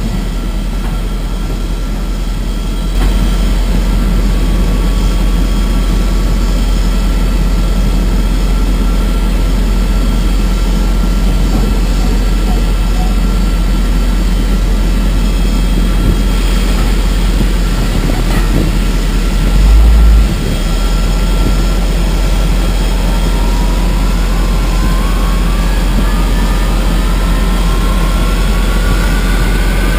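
Steady low rumble of the pushback tug and the Boeing 777's engines, with a brief louder low burst about two-thirds of the way through. Near the end a rising whine climbs steadily as a jet engine spools up.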